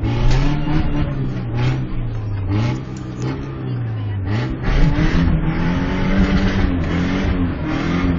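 Black Toyota's engine revving, heard from inside the cab; its pitch rises and falls several times as it works the tyres to chew its way out of deep snow where it is stuck.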